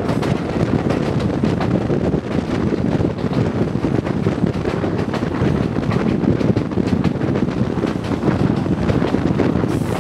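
Kōnan Railway Ōwani Line electric train running along the track, heard at an open window: a steady rumble of wheels on rails mixed with wind rushing past the microphone, with quick small clicks and rattles throughout.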